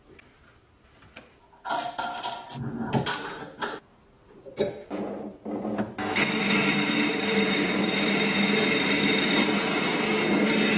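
A few short scraping and clattering sounds of metal parts being handled, then a power tool starts about six seconds in and runs steadily, typical of rust being worked off a part in a restoration.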